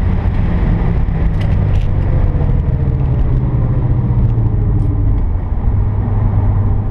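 Mitsubishi Lancer Evolution X MR's turbocharged four-cylinder engine running at high road speed, with steady road and wind noise; the engine's low tone drops in pitch about five seconds in.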